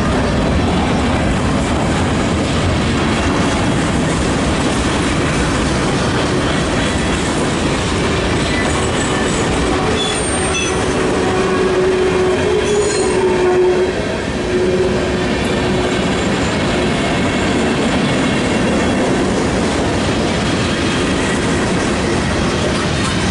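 Freight cars rolling past at close range: a steady rumble and clatter of steel wheels on the rails. A wheel squeal rises over it for several seconds around the middle.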